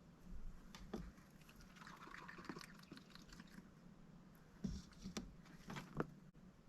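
Mallard duck dabbling at its dish, faint: scattered taps of the bill with a short stretch of small wet, splashy sounds in the middle and a few sharper taps near the end.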